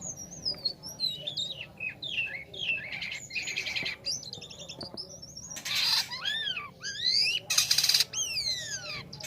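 Jalak kapas, a starling kept as a songbird, singing a fast, varied song of whistled glides and chattering notes. Harsh rasping bursts come about six and eight seconds in, and long arching whistles fall in pitch in the second half.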